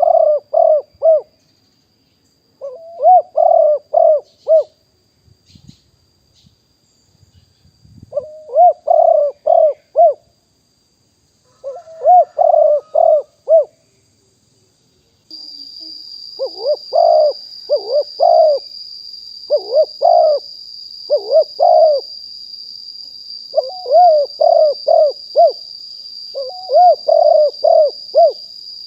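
Spotted dove cooing: repeated phrases of several quick coos, with a pause of a couple of seconds between phrases and phrases coming closer together in the second half. A steady high-pitched whine comes in about halfway and runs on beneath the coos.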